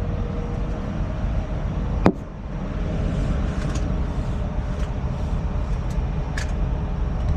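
Heavy truck engine running steadily, with a single sharp metallic knock about two seconds in and a few faint clicks after it.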